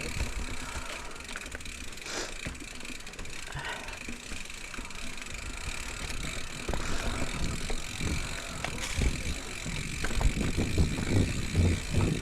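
Mountain bike rattling and knocking over rough, rooty trail, with tyre noise throughout. The jolts get heavier and thump harder in the last couple of seconds.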